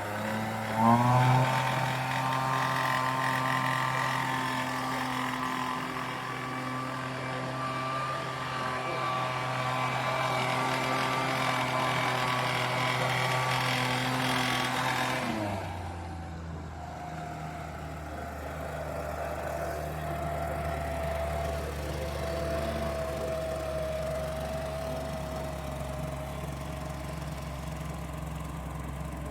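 Homelite backpack leaf blower's 30cc two-stroke engine running: it revs up about a second in and holds a steady high speed, then drops back about halfway through and idles steadily.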